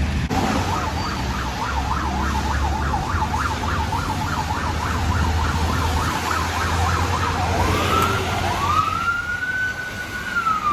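Emergency vehicle siren on a rapid yelp, about four up-and-down sweeps a second, then changing to a slow wail that rises, holds and begins to fall near the end, over a steady low rumble.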